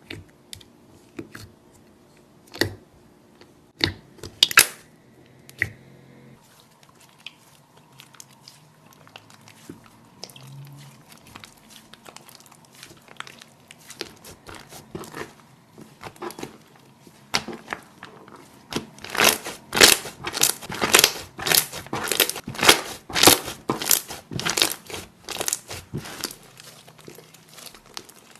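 Slime being squeezed and pressed by hand, giving crackling, crinkling clicks. The clicks are scattered at first, then come in a dense, louder run about two-thirds of the way through.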